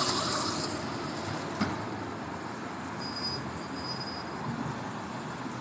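City street traffic: a passing vehicle fading away over the first second, then a steady traffic hum. A single sharp click comes about a second and a half in, and two short high-pitched tones come near the middle.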